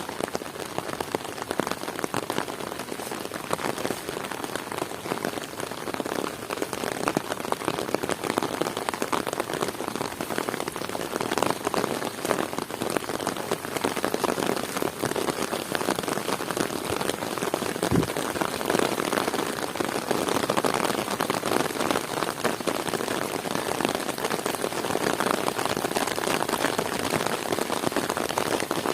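Heavy rain falling steadily, a dense patter of drops hitting surfaces. A single low thump comes about two-thirds of the way through.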